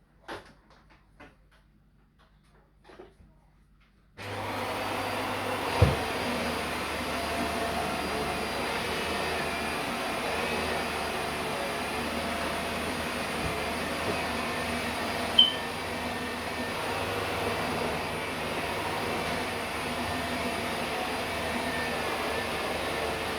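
Vacuum cleaner switched on about four seconds in after a few light knocks, then running steadily. Two sharp knocks come over the motor noise.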